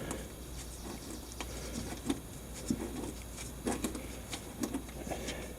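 Scattered light clicks and taps of fingers and a part being worked loose in a cramped spot on an ATV engine during an oil change.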